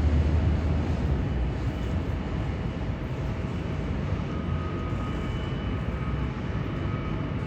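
Jet aircraft engines running: a steady, noisy rumble whose deep low end eases in the first second, then holds, with a faint thin whine coming in about halfway through.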